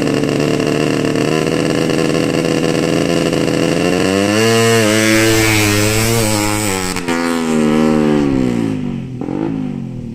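A ported Suzuki Satria FU motorcycle engine is run loud, holding steady revs and then revved in wavering blips from about four seconds in. It drops back, rises once more and falls away near the end. It is running on a trial CDI unit that the tuner judges unsuitable, with the ignition mapping not yet right.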